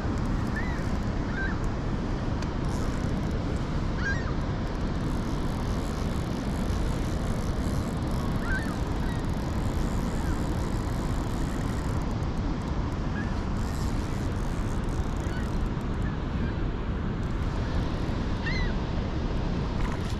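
Steady rush of water pouring through an open dam, with faint short bird calls now and then.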